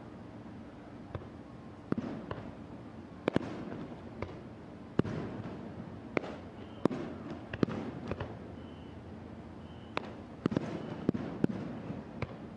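Aerial fireworks shells bursting: about a dozen sharp bangs at irregular intervals, some in quick pairs, many followed by a rumbling tail of echo.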